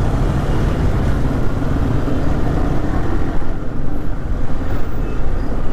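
Motorcycle engines running as a large group of bikes rides off, under a heavy, steady low rumble that grows more uneven about three and a half seconds in.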